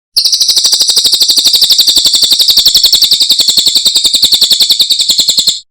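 Cililin bird singing one long, very rapid, even high trill of about a dozen notes a second, which starts abruptly and cuts off sharply after about five and a half seconds.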